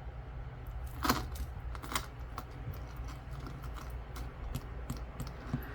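Small metal charms and beads on a bracelet clinking and jingling as it is turned over in the hands, with scattered light clicks and two louder ones about one and two seconds in.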